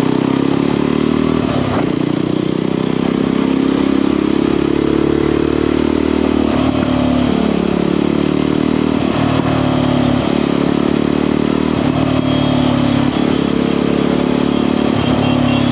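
Motorcycle engine running under way as the bike is ridden, its note rising and falling gently with the throttle, with brief dips several times.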